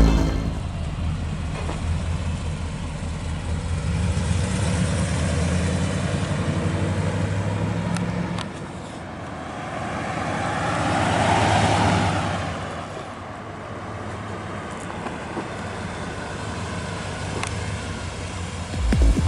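The 1990 Chevrolet K1500 Silverado's 5.7L 350 V8 running steadily. About halfway through, a rushing sound swells for a couple of seconds and fades, like a vehicle going past, and then the engine is heard more quietly.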